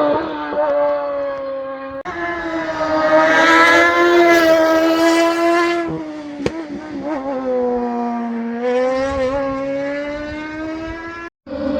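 Race car engine running hard at high revs, its pitch rising and falling with throttle and gear changes, in several short stretches that change abruptly. A sharp crack about six and a half seconds in.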